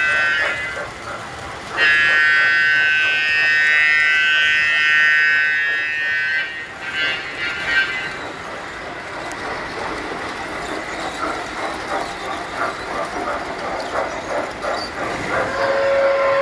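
Tinplate toy train whistles blowing: two long, high blasts and a short one in the first half, then the clattering rumble of the toy trains running on their track, with another, lower whistle starting near the end.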